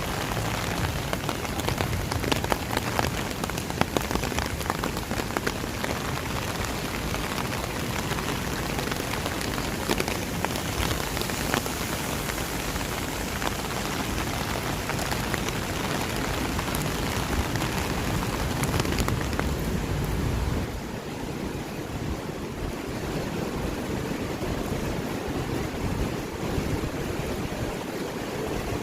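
Heavy rain falling, a dense hiss full of tiny drop ticks. About twenty seconds in the hiss thins out in the upper range and drops a little in level, leaving a lower, steadier rush.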